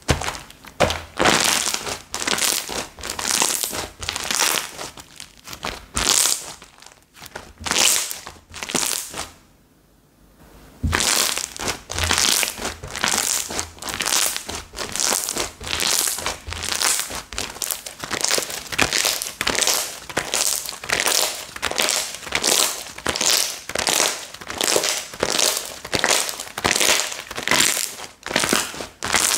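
Slime being squeezed and pressed by hand over and over, giving a crackling, squishing sound with each press. The presses come a bit over one a second, with a short pause about a third of the way through.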